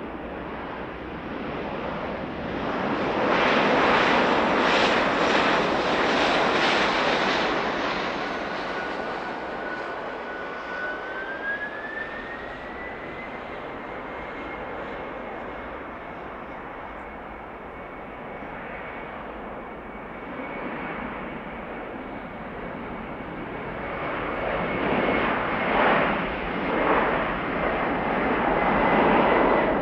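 Jet airliner engines running with a steady rushing noise and a high whine that rises in pitch about eleven seconds in, then holds. The noise swells early on, eases, and grows louder again near the end.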